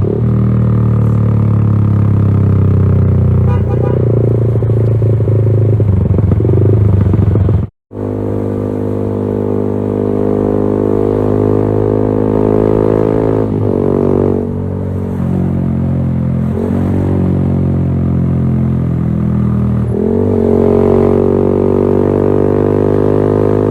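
Yamaha XSR155's 155 cc single-cylinder engine running through a LeoVince GP Corsa Evo exhaust, its pitch rising and falling with the throttle several times. The sound cuts out for an instant about eight seconds in.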